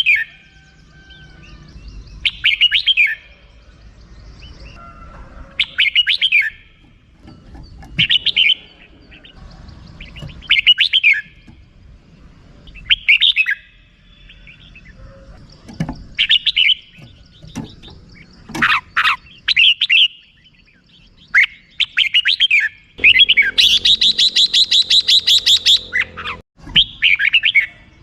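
Red-whiskered bulbul calling: short chirpy phrases every two to three seconds, then a rapid run of repeated 'rik' notes lasting about two and a half seconds near the end.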